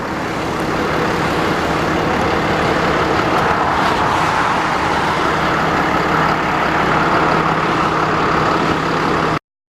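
Steady road and engine noise from a moving vehicle, heard from inside, growing a little louder over the first second and cutting off abruptly near the end.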